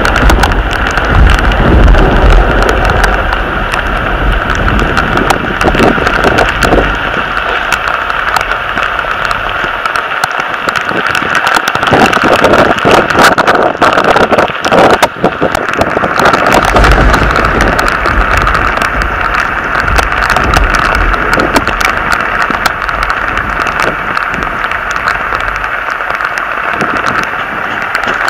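Heavy rain in a mountain storm pelting close around the microphone in a dense patter of sharp strikes, with wind rumbling on the microphone in gusts near the start and again past the middle.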